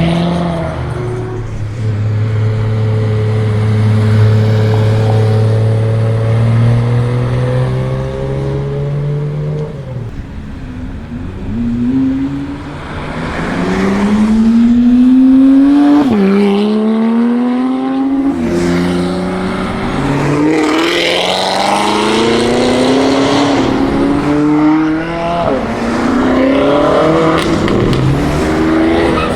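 A performance car's engine pulling away steadily, its note slowly rising. Then, from about halfway through, engines accelerating hard, the pitch climbing and dropping back at each upshift several times.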